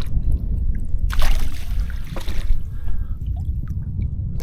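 Water splashing and trickling as a just-landed trout is handled at the surface, with one louder splash about a second in, over a low rumble.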